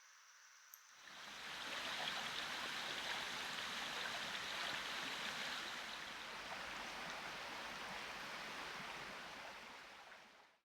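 Fast-flowing stream water rushing steadily, like river rapids. It fades in about a second in and fades out near the end.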